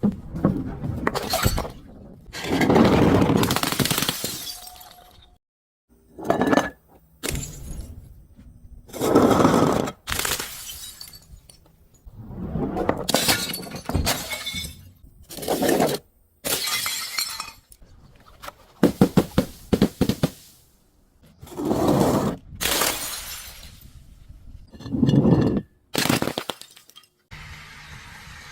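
Glass bottles and other brittle objects being crushed one after another: about a dozen separate crunching, shattering bursts a second or two apart, with a quick run of sharp cracks partway through.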